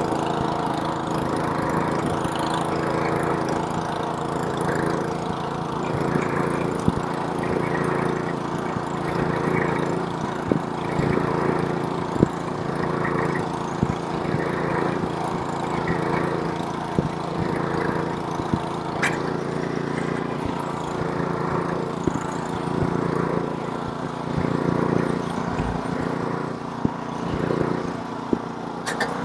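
Snowblower's small engine running steadily while throwing snow, with a few brief sharp clicks and knocks scattered through.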